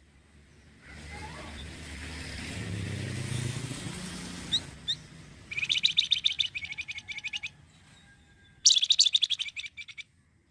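Flamboyan songbird singing two bouts of fast, rapidly repeated high notes, about five and a half and nine seconds in, the second the loudest. Before them a low rumble like a passing vehicle swells and fades.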